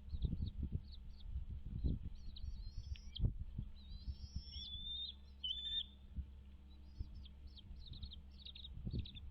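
Birds chirping: many short, high chirps throughout, with a few longer whistled notes around the middle, over low rumbling thumps.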